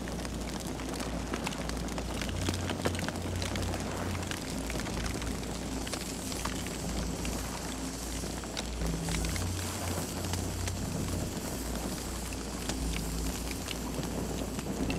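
Campfire burning, with frequent short crackles and pops from the wood over a steady low rumble.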